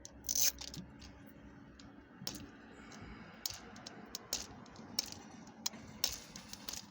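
Action-figure packaging being handled and opened: scattered sharp clicks and plastic crinkles, with short rustling bursts about half a second in and again near the end.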